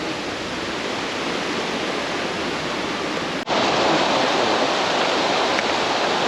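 Creek water running steadily over its rocky bed. About three and a half seconds in, the sound cuts and comes back louder and closer.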